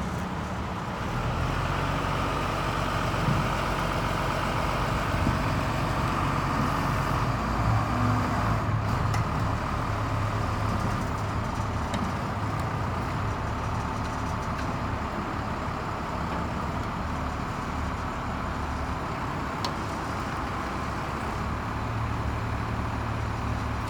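Engine of a 1996 Ford LN7000 truck crane running steadily, a little louder with a higher hum over it for roughly the first ten seconds.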